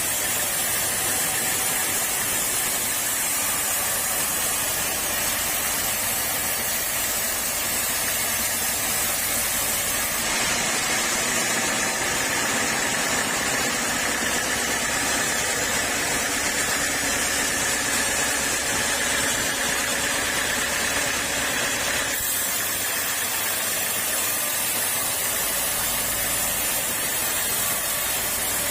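Sawmill saw running steadily with a hissing mechanical noise. For about twelve seconds in the middle it turns harsher and brighter, as the blade cuts through teak.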